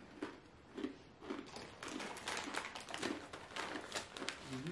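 Close crunching of someone chewing a hard, baked sesame pretzel snack: a run of short, irregular crisp cracks.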